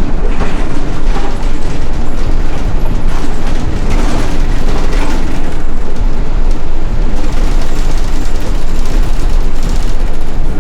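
Loud, steady rumble of a city bus driving through snow, heard from inside the bus.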